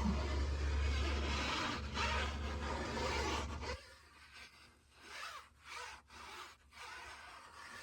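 Rubbing and scraping sounds from cleaning. A loud stretch runs for nearly four seconds and stops suddenly, followed by a few short, quieter swishes.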